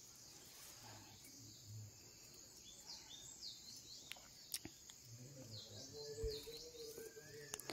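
Birds chirping faintly: quick high chirps in two short runs, about three seconds in and again around five to six seconds.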